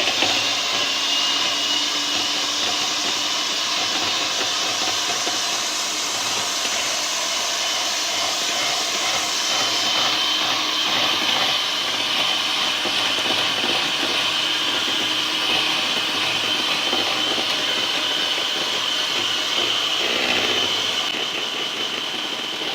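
Electric mixer running steadily at high speed, whipping cream, with a high motor whine over a steady whirr.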